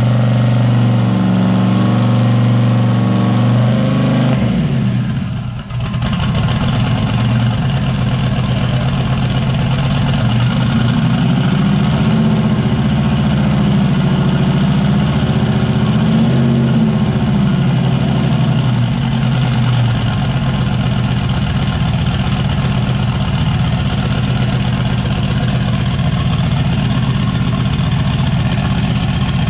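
Turbocharged LS V8 in an S10 pickup running at a fast idle, dipping sharply for a moment about five seconds in, then idling lower. Its speed rises slightly and falls back again partway through.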